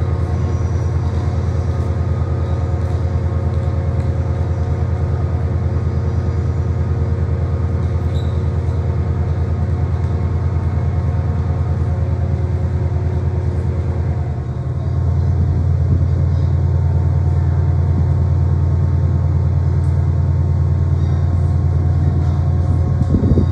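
Train engines running with a steady low rumble and several held tones, growing a little louder about halfway through.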